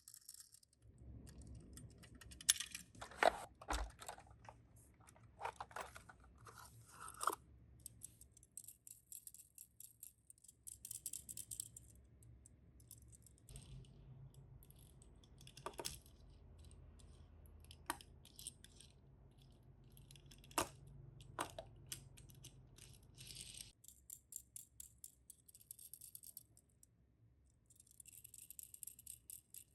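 Small die-cast Tomica toy cars and their packaging being handled, with scattered light clicks and knocks and brief bits of rustling. The loudest clicks come about a third of the way in and again in the middle.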